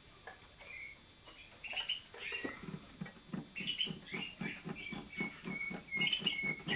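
Caged songbirds, canaries or a young nightingale, chirping and singing in short trills and held notes, starting a couple of seconds in, with a low rhythmic pulsing of about three to four beats a second underneath.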